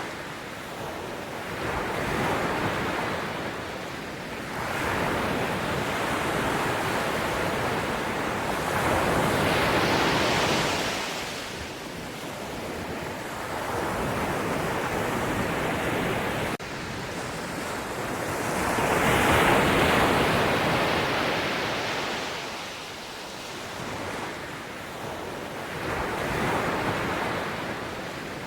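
Sea waves breaking and washing up, a steady rush of surf that swells and ebbs in slow surges every few seconds, the biggest about a third of the way in and again about two thirds in.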